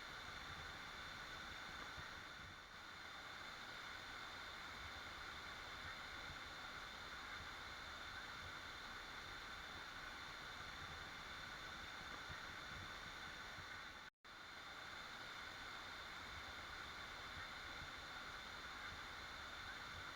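Waterfall, water falling and rushing in a steady even roar-free hiss, cutting out completely for an instant about fourteen seconds in.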